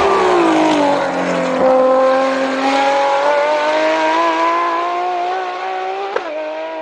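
A high-revving sports car engine: its pitch falls over the first second or so, then climbs slowly as the car accelerates, with one sharp crack about six seconds in, fading a little near the end.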